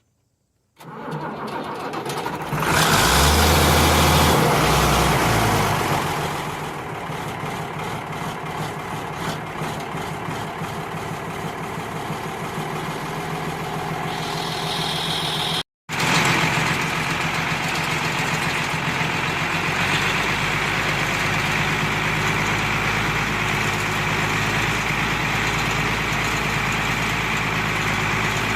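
An engine starts about a second in, runs louder for a few seconds, then settles to a steady run. The sound drops out for a moment past the middle, then the engine is heard running steadily again.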